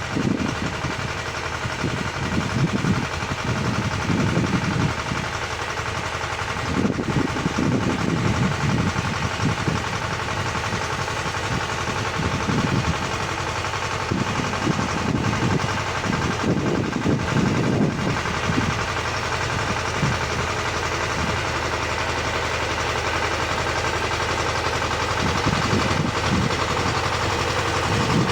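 Tractor engine running steadily while its rotary tiller works the soil. The low rumble swells and eases unevenly as the load changes.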